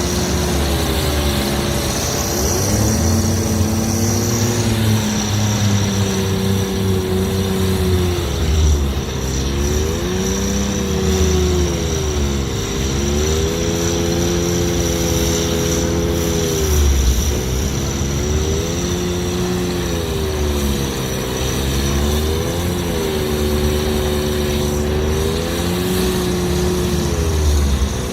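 Kirovets tractor's big diesel engine running hard, its pitch dipping and climbing back again and again every few seconds. A steady high whine runs alongside.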